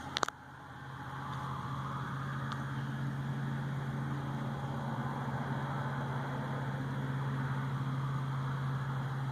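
A steady low mechanical hum with a hiss over it, like a motor or engine running, building up over the first second or so and then holding level. A few sharp clicks come right at the start.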